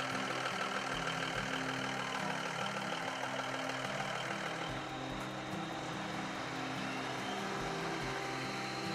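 Cummins NTC400 inline-six turbo diesel in a 1989 Peterbilt 378 tractor truck idling steadily.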